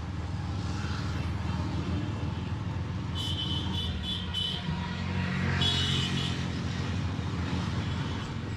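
Motorcycle engine running and road rumble, picked up by a mic inside the rider's helmet. A run of four short high-pitched toots comes about three seconds in, and a longer toot near six seconds.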